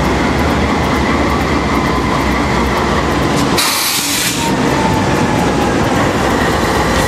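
Train rolling with a loud steady rumble and a thin, steady high tone from the rails. About three and a half seconds in, a short burst of hiss lasts under a second.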